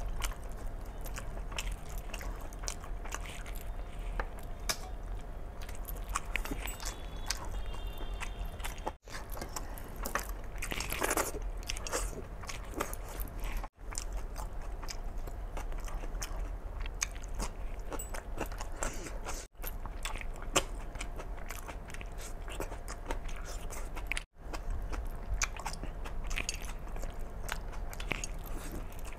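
Close-miked eating: a man biting and chewing mouthfuls of mutton curry, rice and raw tomato eaten by hand, with steady small clicks and mouth noises, broken four times by a brief gap of silence.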